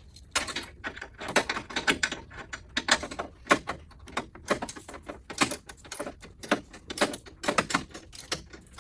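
Metal hand tools clinking and clattering: a run of irregular sharp clicks and knocks, several a second, like tools being handled or rummaged through in a bucket.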